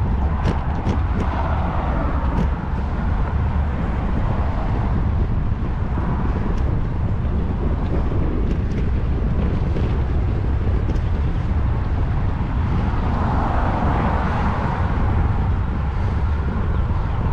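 Wind buffeting a GoPro microphone on a moving bicycle, a steady low rumble, with road traffic passing. A car swells past about a second in and another near the end, and there are scattered sharp clicks.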